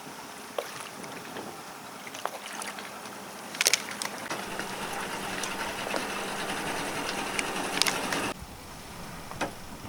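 A small motorboat's engine running quietly on the water, a faint steady hum under water noise, with a few light knocks. The sound changes abruptly about eight seconds in.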